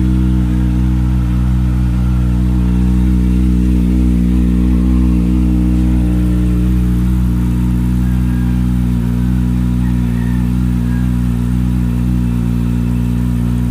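Kawasaki ZX-25R's 250 cc inline-four idling steadily through an aftermarket Akrapovic exhaust after a cold start.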